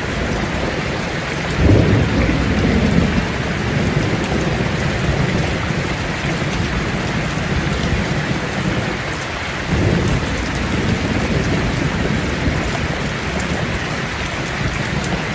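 Steady heavy rain from a thunderstorm, with low rolls of thunder about two seconds in and again about ten seconds in.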